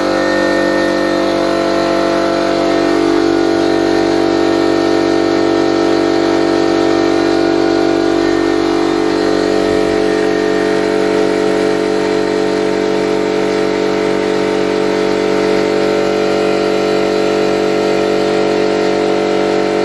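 ALDI 50-litre air compressor running steadily, its motor and pump filling the tank with a constant hum.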